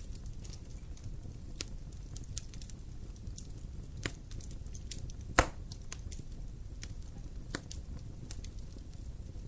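Wood fire in a fireplace crackling, with scattered sharp pops over a low steady rumble of the flames; the loudest pop comes about five and a half seconds in.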